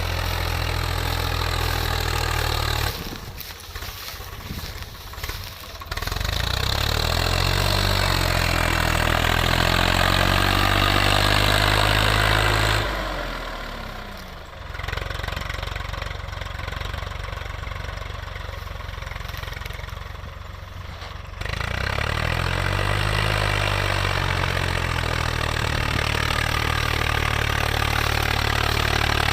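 Tractor engine running, falling quieter twice and coming back up with a rising pitch each time, as the throttle is opened and the engine revs.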